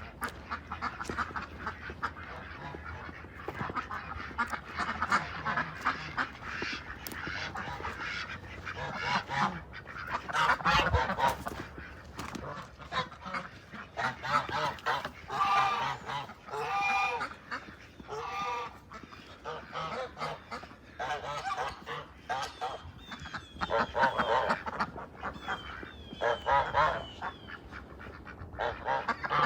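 A flock of waterfowl calling: many short honking and quacking calls, often overlapping, with louder clusters of calls now and then.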